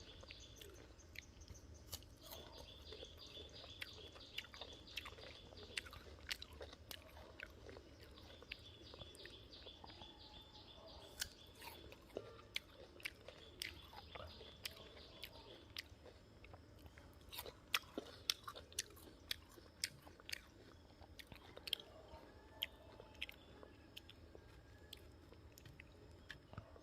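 Close-up chewing of crisp raw guava: sharp crunches and bites come at irregular moments, with softer chewing between them. The loudest crunches fall about 11 s in and again around 17 to 19 s in.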